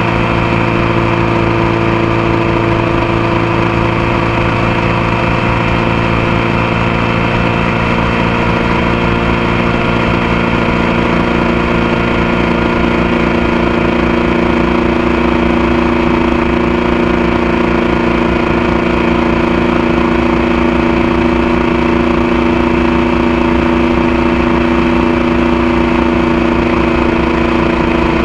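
Motorcycle engine running steadily at a constant pitch, heard close up from a camera on the passenger foot peg.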